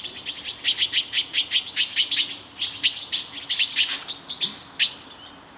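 A small bird chirping over and over: short, high chirps about four or five a second in quick runs, stopping shortly before the end.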